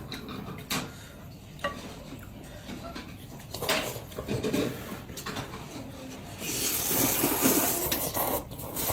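Sounds of a noodle meal: a few sharp clicks of utensils against dishes, then a louder noisy stretch of about two seconds near the end.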